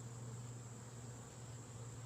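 Steady hum of a honeybee colony from an opened hive.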